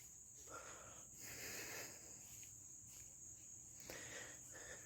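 Faint, steady high-pitched chirring of crickets, with a few soft rustles; otherwise near silence.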